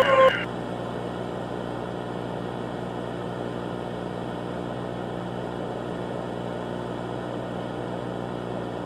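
A loud pulsing electronic tone, about four pulses a second, cuts off abruptly right at the start. It gives way to a steady low hum with hiss, like analog static, that holds at an even level.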